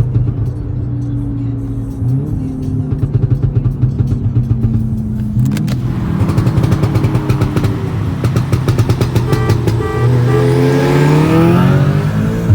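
Big-turbo Audi S3 engine running hard under acceleration, its note jumping abruptly about 2 and 5.5 seconds in, then climbing steadily with a loud rushing noise over the last few seconds.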